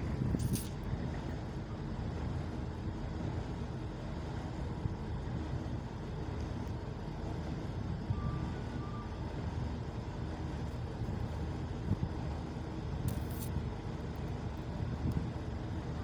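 A boat's engine running steadily, a low even rumble, with brief hissing bursts near the start and about 13 seconds in.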